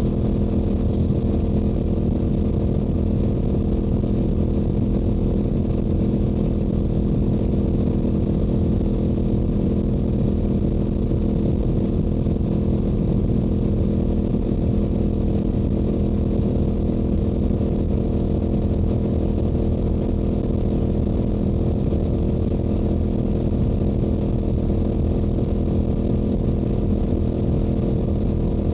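Stock Yamaha YZF-R7's 689 cc parallel-twin engine and exhaust at a steady highway cruise, holding one engine speed throughout, with wind rumble on the microphone.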